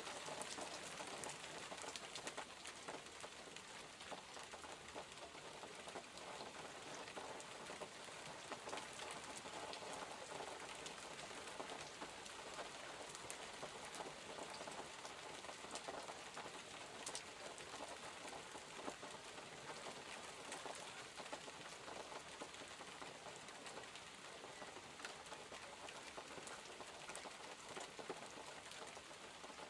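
Steady rain falling, an even hiss with many scattered sharp drips and taps.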